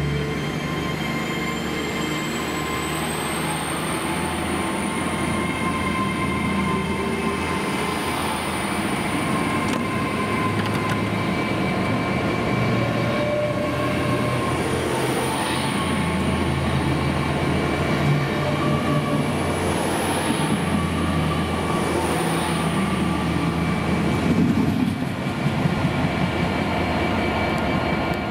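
Great Western Railway Hitachi Intercity Express Train departing and accelerating. Its traction equipment gives a high whine that rises in pitch over the first few seconds, over a steady low running rumble.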